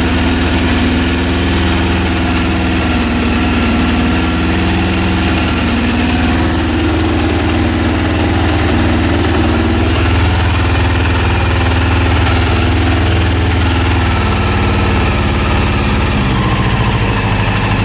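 Rebuilt Honda CB400 inline-four engine running steadily at low revs, the note shifting a little near the end. At these low revs the owner hears a mechanical noise that he thinks comes from the low RPM and an out-of-order carburetor set.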